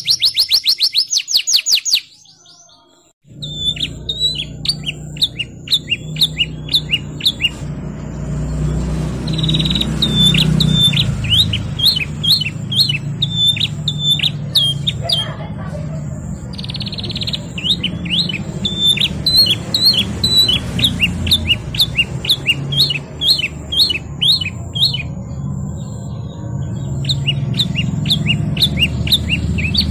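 Canary singing: fast rolling trills and strings of quick repeated chirps. The song breaks off briefly about two seconds in, then resumes over a low steady rumble.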